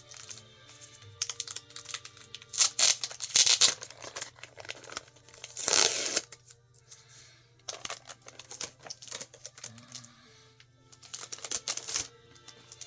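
Comic books being handled and sorted by hand: crinkling and rustling in several bursts, the loudest in the first half, over quiet background music.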